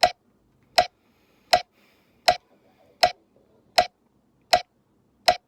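Metronome clicking a steady beat, eight even clicks about three quarters of a second apart (around 80 beats a minute), setting the tempo for scale practice.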